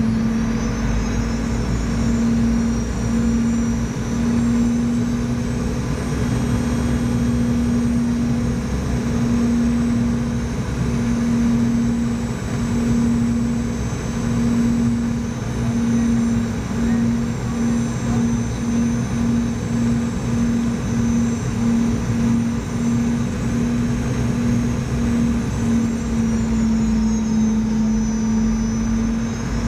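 Boeing 717 turbofan engines heard from inside the passenger cabin: a steady drone with a low hum that pulses, the pulses coming faster as it goes on, under a high whine that dips near the end.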